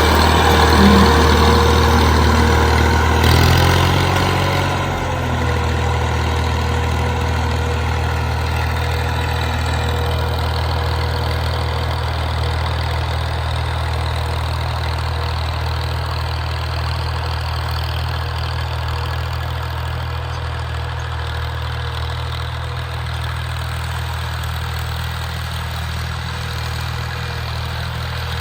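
Tractor engine running steadily, dropping slightly in level and pitch about four seconds in and then holding even.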